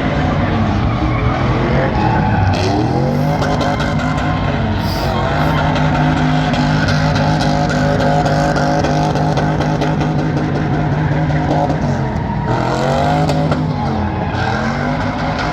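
Truck engine held at high revs during a burnout, with tyres squealing against the pavement; the revs drop and climb back up twice.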